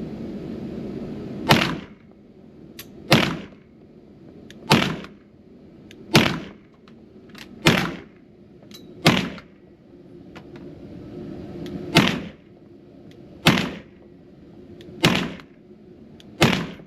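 Ten single 9mm gunshots fired one at a time at a slow aimed pace, about a second and a half apart, with a longer pause of about three seconds midway, at an indoor shooting range.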